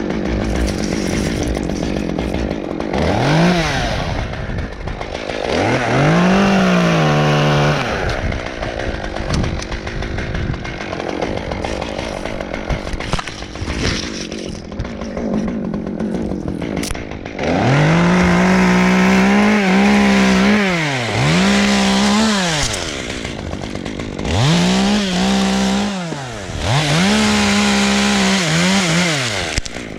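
Two-stroke chainsaw working on a Canary Island pine, revved up to full speed and held several times, then dropped back to a lower running speed between. The longest full-speed runs come in the second half.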